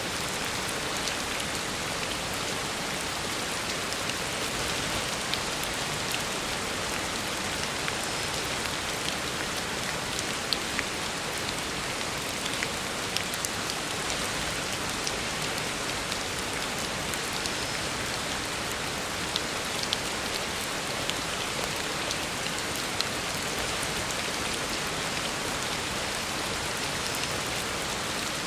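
Heavy rain falling steadily on a road, an even hiss with scattered sharper drop ticks.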